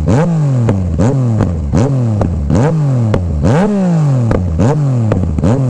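Yamaha Niken's three-cylinder engine through an Akrapovič exhaust with the baffle removed, revved in about seven quick throttle blips. Each sharp rise in pitch falls away again, with popping clicks at each blip.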